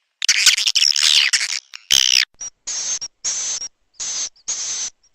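Recorded swiftlet calls played as a lure sound for swiftlet houses: about a second and a half of rapid twittering chirps with falling glides, a click, then a string of short, hissy buzzing calls, about two a second.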